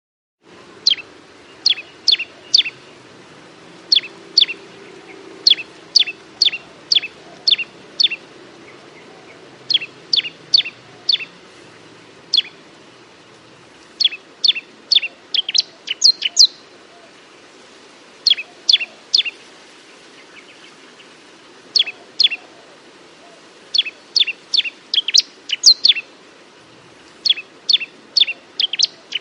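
Bar-winged prinia singing: phrases of three to six quick, sharp notes, each dropping steeply in pitch, repeated every second or two with short pauses between phrases.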